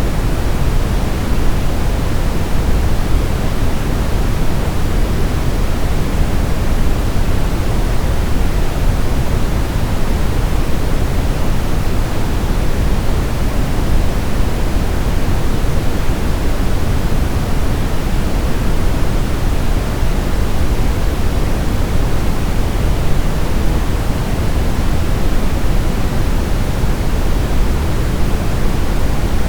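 Steady brown noise: an even, deep rushing hiss weighted heavily toward the low end, with no changes or events.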